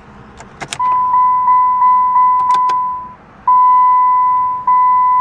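Chrysler PT Cruiser's electronic warning chime ringing. It starts after a few clicks, repeats about three times a second, pauses briefly, then continues with strikes about a second apart.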